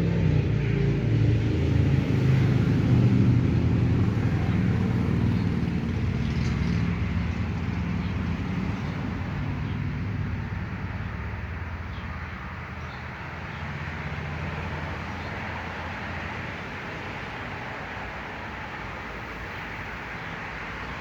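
A motor vehicle's engine passing nearby: a low hum, loudest in the first few seconds, then fading away over about ten seconds into a steady outdoor background.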